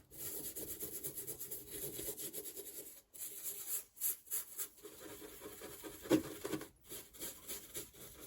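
A brush scrubbing the corroded engine timing cover in repeated rubbing strokes, with a few short pauses, to loosen old paint and dirt.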